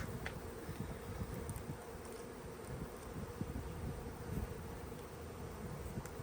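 Many honey bees buzzing steadily around an opened beehive, with a single light click near the start.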